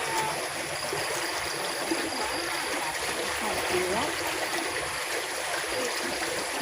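Running water from a stream flowing after rain, a steady even rush.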